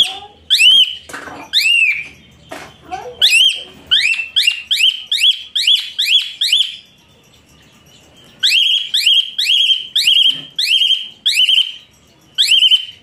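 A bird giving loud, repeated whistled chirps, each rising then falling in pitch, about two a second. The chirps stop for about a second and a half near the middle, then resume.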